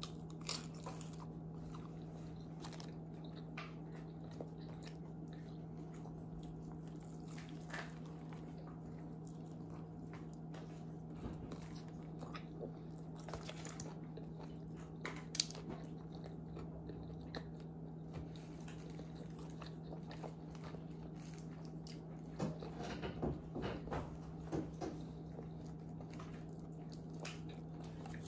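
Quiet biting and chewing of crispy fried chicken: scattered small crunches and mouth sounds, busier about 23 seconds in, with a sharp click about 15 seconds in, over a steady low hum.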